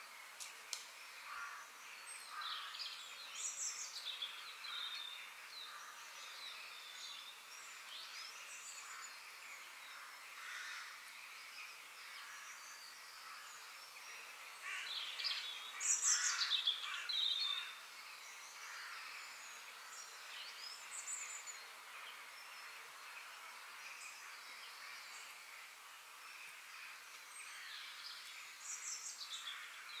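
Several wild birds chirping and calling in woodland, short chirps and quick whistled glides scattered over a faint steady hiss, with a louder burst of calls about halfway through.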